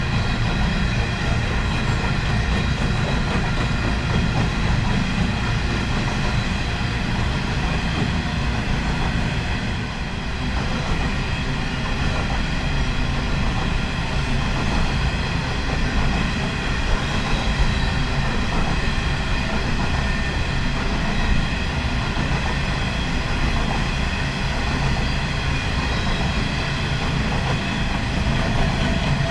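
Coal train rolling past steadily: a constant low rumble of wagons on the rails, with a steady high-pitched whine over it.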